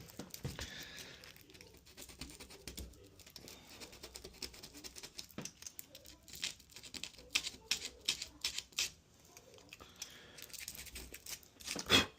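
Irregular taps, clicks and scraping of hand tools working the wooden door edge while a deadbolt mortise is trimmed and fitted. The clicks come thickest in the middle, with one sharper knock near the end.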